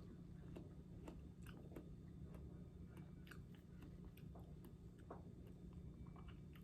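A person chewing crunchy apple dipped in caramel close to the microphone: faint, irregular wet clicks and crunches, several a second, over a low steady hum.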